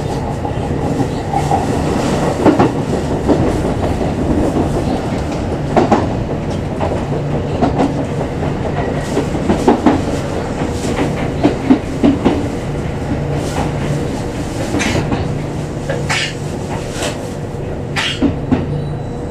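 Kintetsu express electric train running, heard from behind the driver's cab: a steady motor hum under running noise, with wheels knocking irregularly over rail joints and points as it runs into a station.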